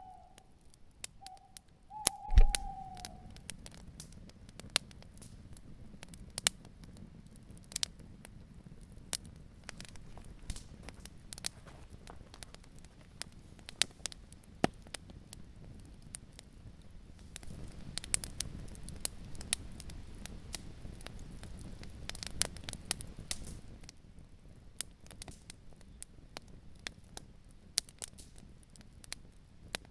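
Campfire crackling, with sharp snaps and pops throughout. An owl hoots a few times in the first three seconds, each hoot falling slightly in pitch. Low wind rumble comes in with a thump about two seconds in and swells between about 18 and 24 seconds.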